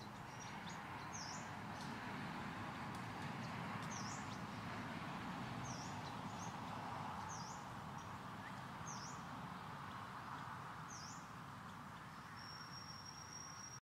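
A bird repeating short, high, sharply sweeping chirps, about seven of them one to two seconds apart, over a steady background hiss. Near the end a single thin, high, level whistle is held for about a second and a half.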